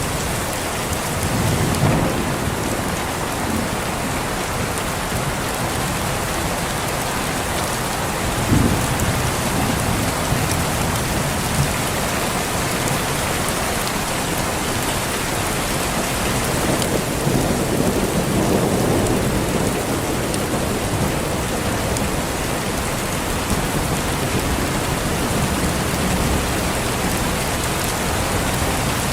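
Steady heavy rain with thunder rumbling in the background. A short, sharper rumble comes about a third of the way in, and a longer swell of thunder follows past the middle.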